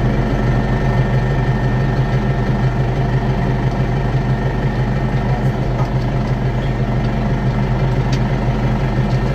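AgKing tractor engine running at a steady idle, an even low drone with no change in speed.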